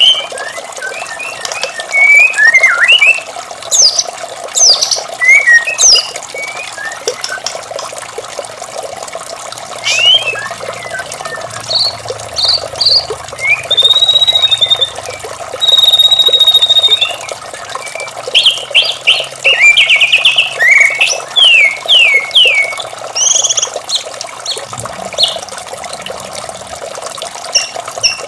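White-rumped shama (murai batu) singing a varied song of short whistles, warbles and rapid trills, with two long held whistles near the middle, over a steady rush of running water.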